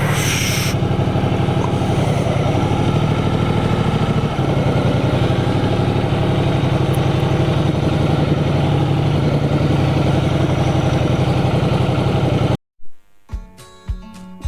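Ducati Multistrada 1200S's 1198 cc V-twin idling steadily with an even pulse after pulling up, with a short hiss in the first second. Near the end the engine sound cuts off abruptly and acoustic guitar music begins.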